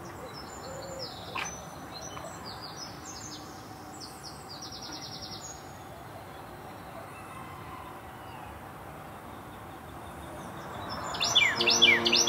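Small songbirds chirping and trilling outdoors over a steady background hiss, with a light tap about a second and a half in. Near the end the birds grow louder in a quick run of falling chirps.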